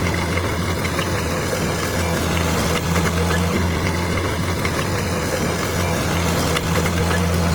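Bulldozer's diesel engine running steadily with a low, even hum.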